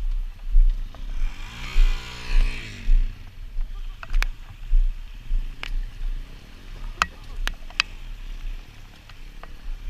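A dual-sport motorcycle engine revs, rising and falling in pitch, about one to three seconds in. A low rumble and several sharp clicks run through the rest.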